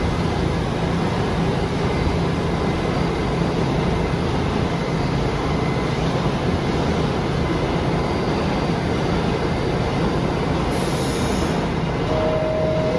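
New York City subway train running through an underground station: a steady, loud rumble of wheels and traction motors on the track. Near the end there is a short hiss, then a steady tone.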